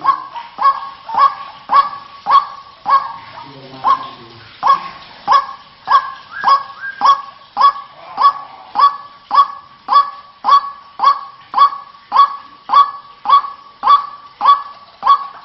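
White-breasted waterhen (ruak-ruak) calling, a steady run of loud, honking 'kwak' notes repeated about twice a second, with a brief pause about four seconds in.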